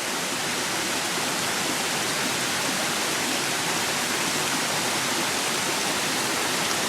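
Creek water rushing over a waterfall: a steady, even hiss with no breaks.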